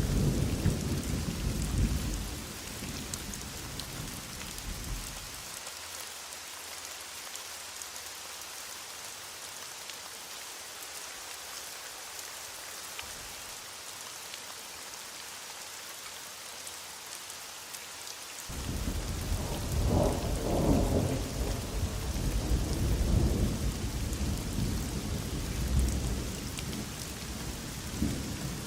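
Heavy rain hissing steadily with rolling thunder. A low rumble dies away abruptly about five seconds in, leaving the rain alone. A new peal starts suddenly near the middle and rolls on in several swells to the end.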